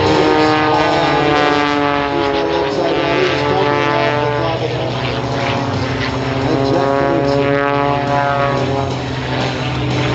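Propeller aerobatic planes with Lycoming piston engines droning steadily overhead, the engine pitch sliding up and down as they manoeuvre.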